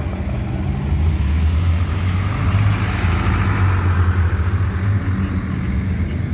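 A car engine and exhaust drone as a car drives past, a steady low note that swells around the middle and then eases.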